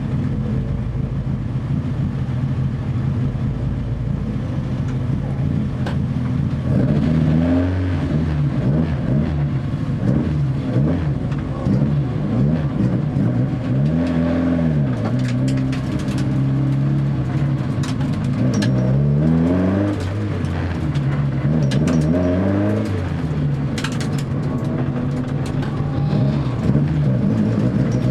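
Honda Civic EF3's ZC 1.6-litre twin-cam four-cylinder on Solex 44 carburettors, running steadily at first, then from about seven seconds in revving up and dropping back again and again as the car accelerates and lifts.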